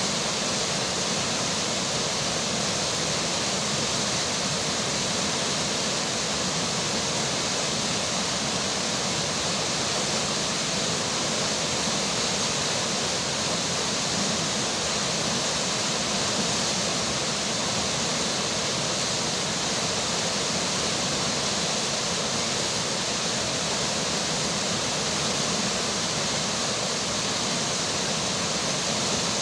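River water flowing, a steady, even rush of water noise with no breaks or separate splashes.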